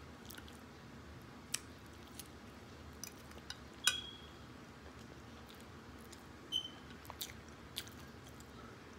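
Close-mic chewing and biting of someone eating barbecue ribs and corn, with scattered small clicks. Two brief clinks, typical of a fork touching a plate, come about four and six and a half seconds in.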